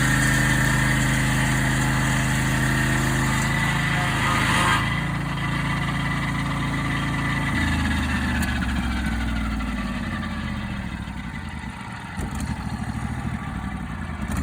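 Engine of a portable sawmill running steadily at speed, with a high hiss that stops about five seconds in. About halfway through, the engine is throttled back and its pitch falls to a low, uneven idle.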